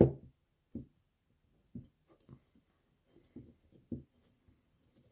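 Faint taps and clicks of hands pressing a new rubber gasket into the groove of a thermostat housing, with one sharper knock at the start; the gasket is a tight fit and not yet seated.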